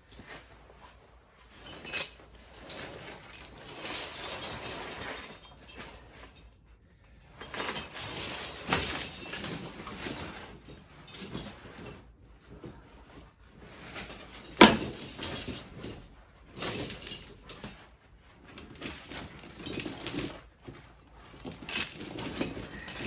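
Steel tyre chains clinking and jangling in bursts as they are handled and fitted onto a tractor tyre, with a few sharp metallic knocks, the loudest about halfway through.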